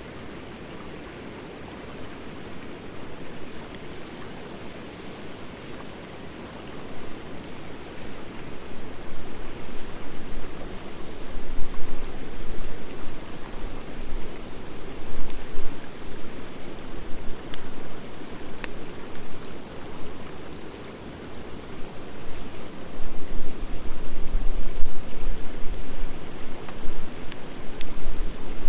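Wood fire of driftwood and hardwood burning in a fire pan: a steady hiss with a few faint crackles. From about seven seconds in, irregular low gusts of wind buffet the microphone and grow louder.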